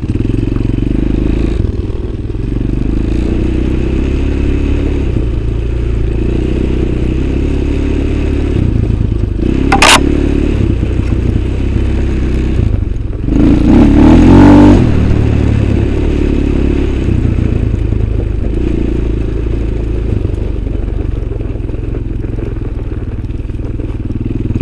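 Motorcycle engine running steadily with small changes in revs, then revved up loudly for about two seconds past the middle. A single sharp knock comes a few seconds before the rev.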